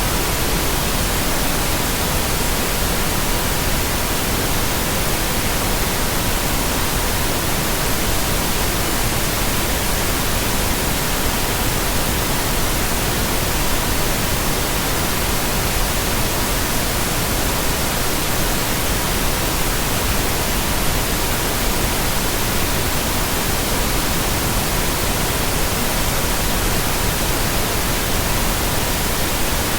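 Steady synthetic pink noise with a thin, constant tone near 963 Hz running through it, unchanging throughout.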